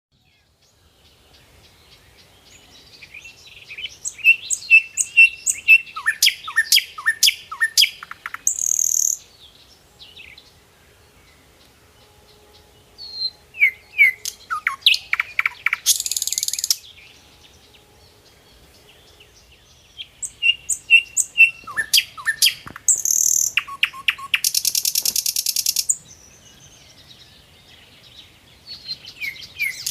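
A songbird singing in repeated phrases about every eight seconds. Each phrase is a quick run of short chirps, many sliding downward, and ends in a harsh buzzy trill.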